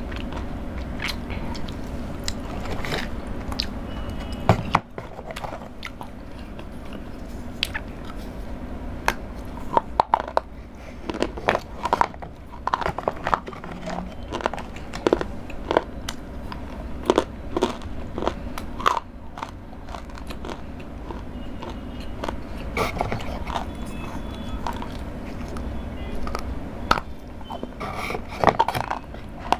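Close-miked biting and chewing of chocolate, with many sharp, irregular crunches.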